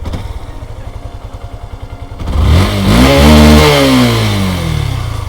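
Yamaha FZS single-cylinder fuel-injected engine idling unevenly, then its revs rise about two seconds in and sink slowly back down. The unsteady RPM comes from running with the O2 sensor unplugged, so the ECU is not getting complete data for fuelling.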